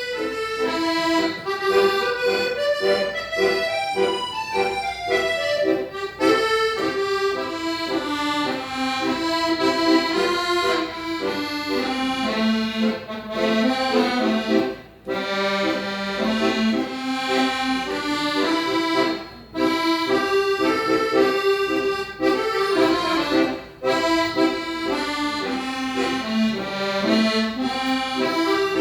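Accordion playing a song melody over chords, with short breaks between phrases.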